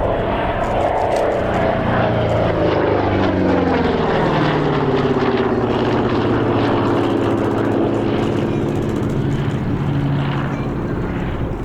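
Piston-engined propeller aircraft flying past. Its engine note drops in pitch over the first several seconds as it goes by, then settles into a steady drone.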